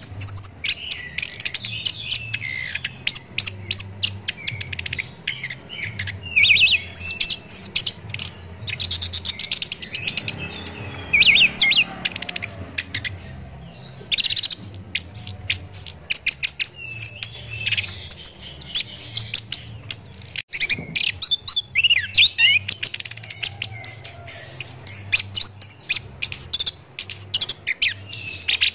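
Chestnut-capped thrush (anis kembang) singing a fast, varied run of chirps and whistles, with a brief pause about halfway through.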